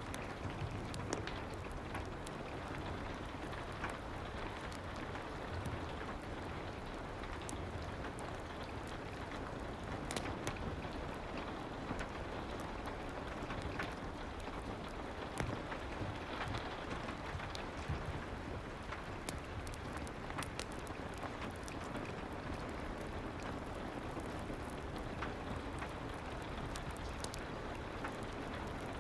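Steady soft rain ambience with frequent small, sharp crackles of a wood fire mixed in.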